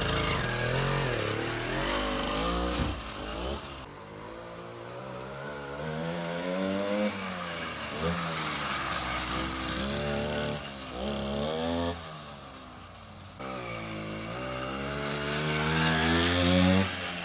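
80cc two-stroke bicycle engine kit on a converted kid's bike, running while the mini motorbike is ridden. Its pitch rises and falls again and again as it revs up and eases off, dropping quieter twice along the way.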